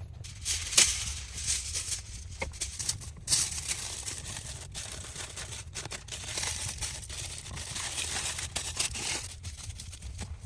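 Crinkling and rustling of material being handled, with many sharp crackles, starting about half a second in and stopping just before the end.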